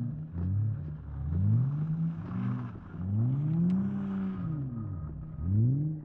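Car engine revving up and down over and over, its pitch rising and falling in long sweeps about once a second or two, as a car slides through the snow with its wheels spinning.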